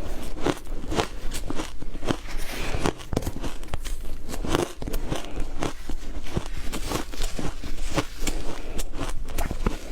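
Ice being bitten and chewed: an irregular run of sharp crunches, a few a second.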